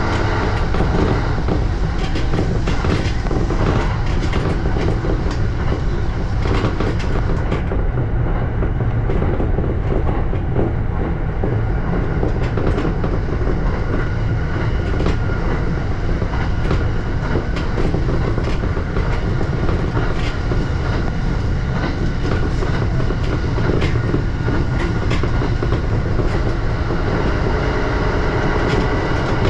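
E235 series electric train running between stations: a steady rumble of wheels on rail, with repeated clicks of the wheels passing over rail joints.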